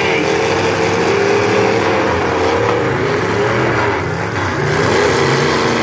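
Demolition derby cars' engines running and revving loudly, their pitch wavering up and down.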